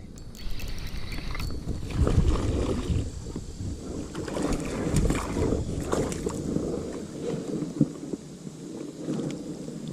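Water sloshing and gurgling around a kayak, with wind buffeting the microphone in uneven gusts and a few small clicks and knocks.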